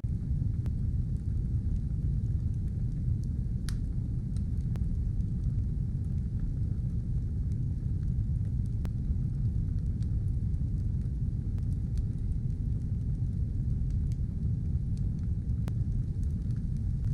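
Fire burning with a steady low roar and scattered sharp crackles, one louder pop a few seconds in.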